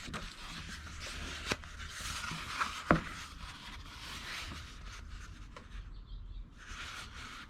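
Hands handling the pages of a picture book: soft rubbing and rustling, with a couple of light clicks.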